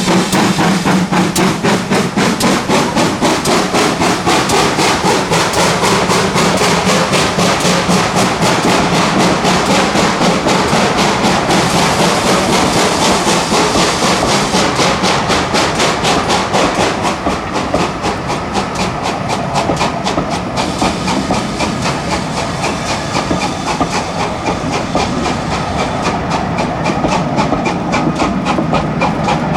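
Heritage railway train running, a fast steady rhythm of beats over a constant hiss, easing a little in level past the midpoint.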